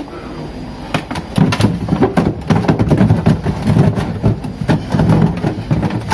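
Plastic clatter and knocks of a refrigerator drawer being handled and fitted back into place, with many irregular clicks.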